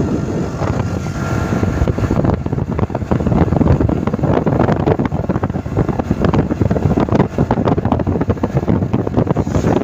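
Wind buffeting the microphone on a moving motorbike, over steady engine and road noise.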